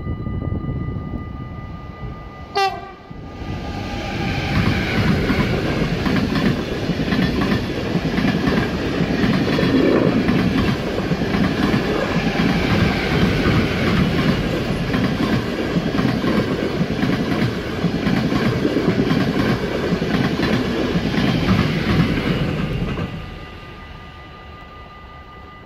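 Two coupled NS Intercity Direct trains, Bombardier TRAXX locomotives and coaches, one towing the other, passing at speed: the rumble and wheel-on-rail clatter build up about three to four seconds in, hold steady for nearly twenty seconds, then drop away suddenly near the end. Just before the train arrives there is one brief, sharp falling tone.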